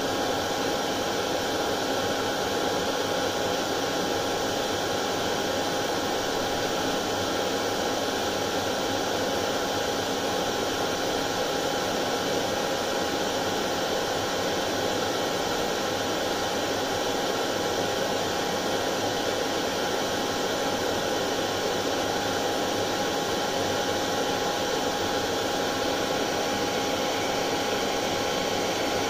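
Hair dryer running steadily: a constant whooshing hiss with a faint steady hum-tone in it, played continuously as white noise to lull colicky babies to sleep.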